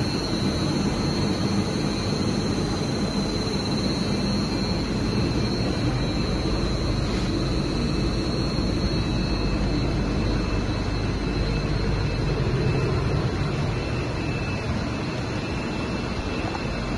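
Rubber extrusion and microwave vulcanization line running: a steady machinery noise with a thin, constant high whine over it.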